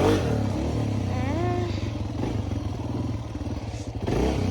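Dirt bike engine running under way, heard from a phone tucked in the rider's helmet; it swells louder at the start and again near the end.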